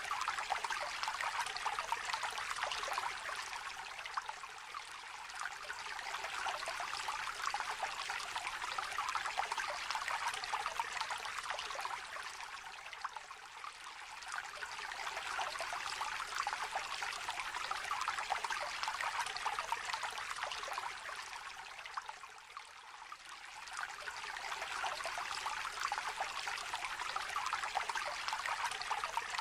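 A small, gently trickling river: a steady splashing rush of water that eases slightly and swells again every several seconds.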